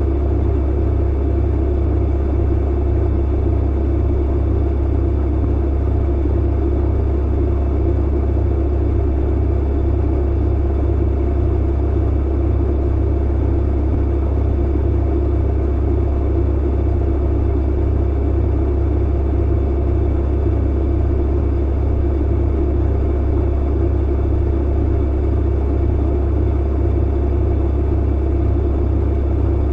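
Clothes dryer running: a steady, unchanging low hum with an even noise above it and a few faint steady tones higher up.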